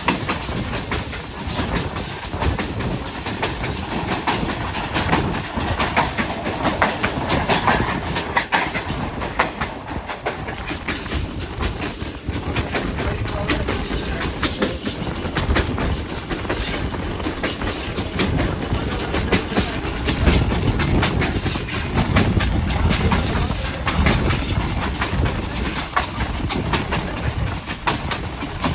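Passenger train running, its wheels clattering over the rail joints: a continuous rumble with a stream of sharp clicks.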